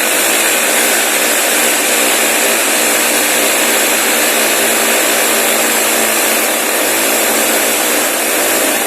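A power tool running steadily at a loud, even level, stopping suddenly at the end.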